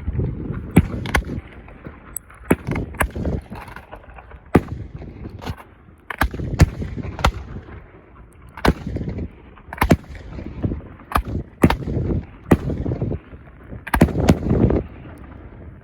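Fireworks going off: an irregular run of more than twenty sharp bangs and cracks, some in quick pairs, with a low rumble between them.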